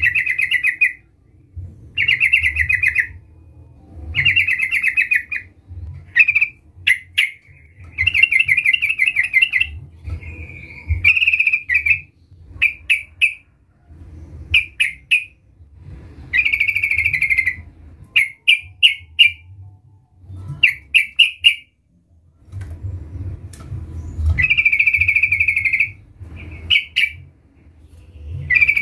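Yellow-vented bulbul (trucukan) singing loudly, as a lure call to draw rival males. It gives repeated rapid trilled phrases about a second long, mixed with clusters of short quick notes and brief pauses. A faint low rumble runs underneath.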